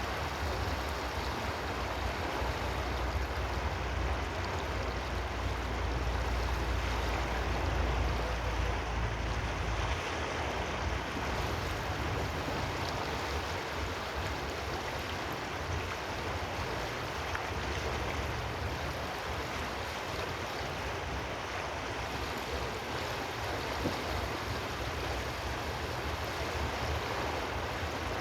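Steady rushing water with no distinct events, over a deep rumble that eases about ten seconds in.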